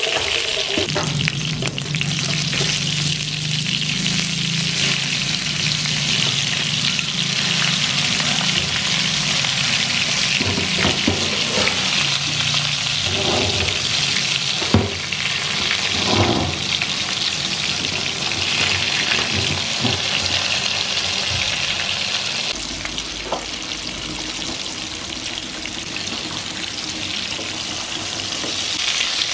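Tomato halves sizzling steadily in hot oil in a frying pan, with a few sharp clinks of metal tongs against the pan around the middle as they are turned.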